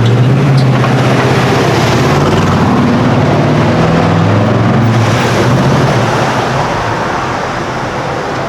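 A performance car's engine running loud as it drives past, its pitch shifting up and down, then fading toward the end.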